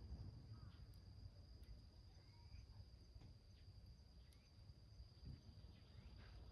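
Faint outdoor ambience: a steady high insect trill throughout, a few faint short bird chirps, and scattered faint crackles from a small wood fire in a can.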